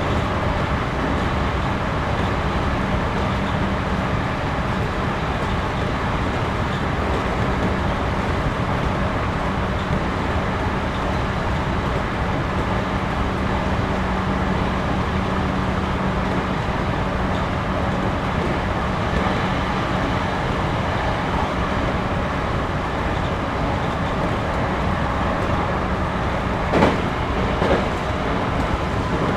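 Interior running noise of a JR Series 211-5000 electric multiple unit in motion: a steady rumble of wheels on rail with a steady low hum. Two sharp knocks come under a second apart near the end.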